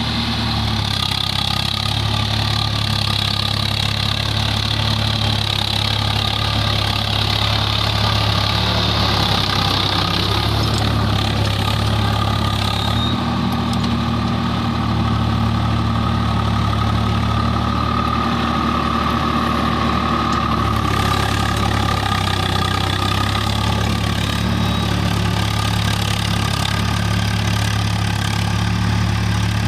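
Swaraj 855 tractor's three-cylinder diesel engine running steadily under load while ploughing, its pitch shifting slightly a couple of times.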